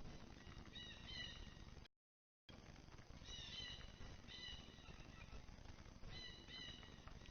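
Faint bird calls: short, pitched notes in small clusters every second or so over a low steady background noise. The sound drops out completely for about half a second around two seconds in.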